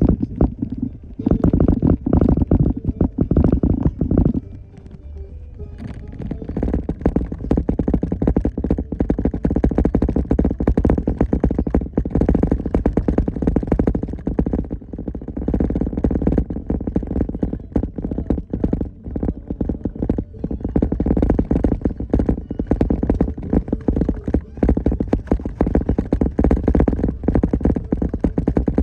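Heavy low rumble with irregular knocks and rattles, typical of a vehicle jolting along a rough trail, with music playing over it.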